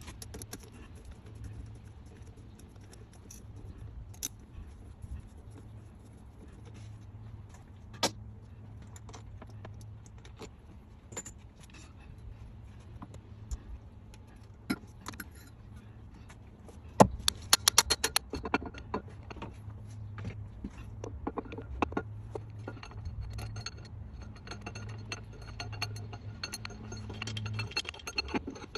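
Metal hand tools clinking and rattling against engine parts: scattered single clicks, then a quick run of clicks about two-thirds of the way in and busier clinking near the end, over a steady low hum.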